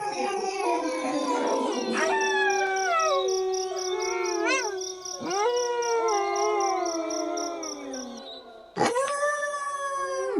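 A pack of wolves howling in chorus: several long howls overlapping, most sliding slowly down in pitch, one rising and falling sharply about halfway through. A loud new howl starts abruptly near the end.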